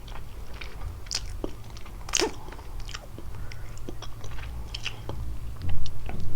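Close-miked chewing and biting of kalaj pastry with walnuts and cheese: wet mouth sounds with small crunches, the sharpest bite about two seconds in, and a dull low thump near the end.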